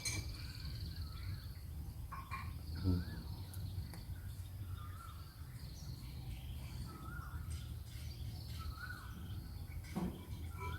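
Background birdsong: short warbling whistles every second or two, over a faint steady high buzz and a low steady hum.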